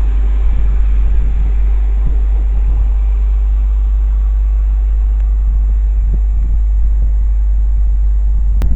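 Steady low rumble of a passing train, with wind buffeting the microphone.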